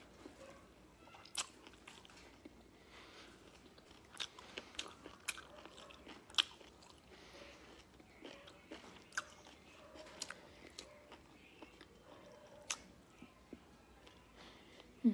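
Close-up chewing of curry and rice eaten by hand, with scattered sharp wet mouth clicks and smacks about every second or so, and one louder short sound right at the end.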